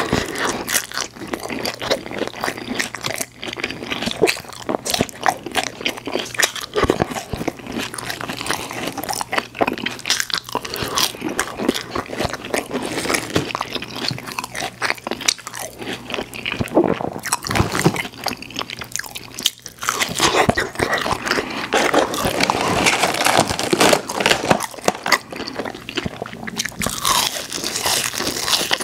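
Close-up chewing and crunching of McDonald's french fries and chicken nuggets, with bites and crackly mouth sounds going on continuously.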